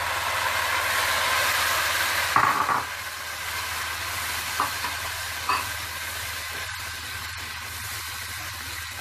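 Puréed tomatoes sizzling as they hit hot ghee with fried onions and garlic in a pan. The sizzle is strongest for the first couple of seconds, then settles to a softer steady sizzle. There is a sharp knock about two and a half seconds in, and a low hum underneath.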